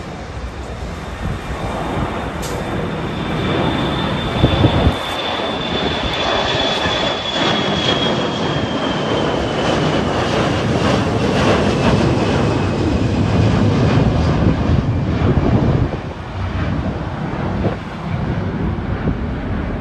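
Jet airliner passing, its engines making a broad rush that builds over the first few seconds, with a high fan whine that slowly slides down in pitch as it goes by.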